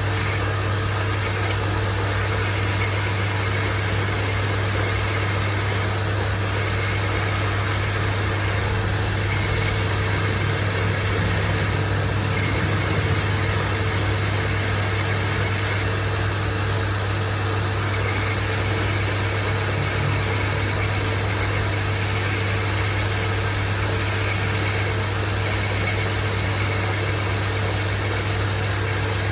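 Lathe running with a steady low motor hum and a fainter steady whine above it.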